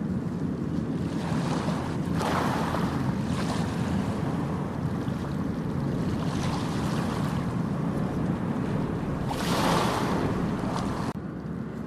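Ocean waves breaking and washing up a beach, with a steady low rumble of surf and wind buffeting the microphone. Two louder waves wash in, one about two seconds in and one near the end.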